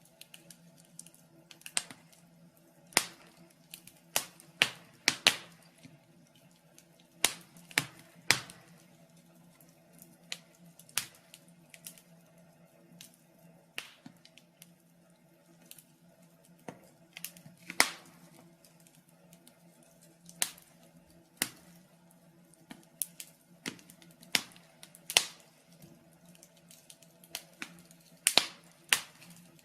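Wood fire crackling in a fireplace: irregular sharp pops and snaps, a few every second or two, some much louder than others, over a faint steady low hum.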